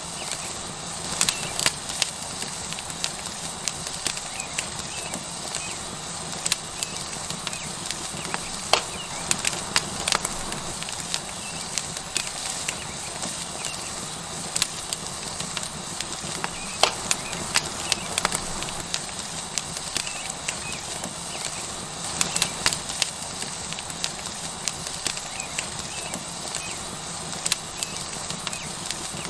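Wood fire crackling, with irregular sharp pops every second or two, over the steady sizzle of a tomahawk steak searing on a hot rock.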